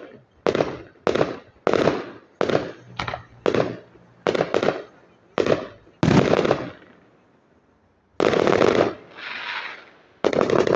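Fireworks going off: a quick string of sharp bangs, about two a second, then a short lull, a heavier longer burst with a softer tail, and more bangs near the end.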